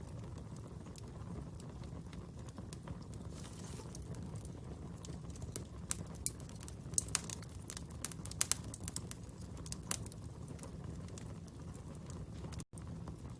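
Wood fire burning with a steady low rumble and crackling, with a run of sharp pops in the middle. The sound cuts out for an instant near the end.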